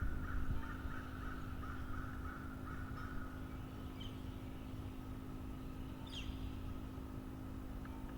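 Birds calling outdoors: a run of harsh, repeated calls that fade over the first few seconds, then a single quick high chirp sweeping downward about six seconds in, over a steady low hum.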